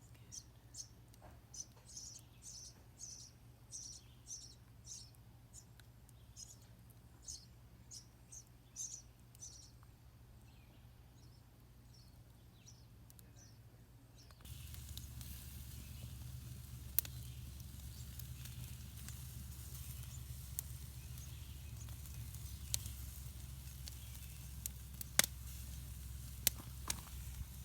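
A bird calling in short high chirps, about two a second, dying away after about ten seconds. About halfway through, the sound switches abruptly to the steady hiss of a campfire with scattered sharp pops and crackles.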